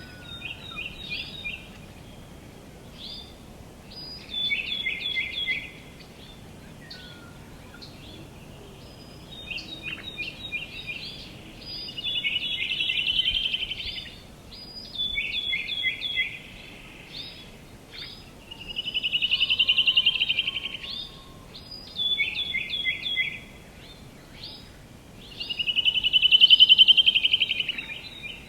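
Songbirds chirping in quick runs of short high notes, with three longer trills about seven seconds apart that swell and fade, the last one the loudest. A faint steady outdoor hiss lies underneath.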